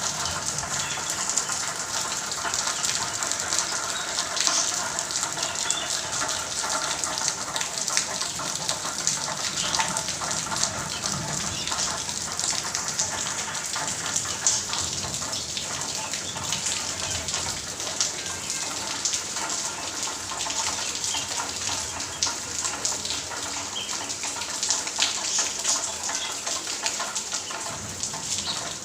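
Heavy monsoon rain pouring steadily: an even, dense hiss of countless drops, with water gushing.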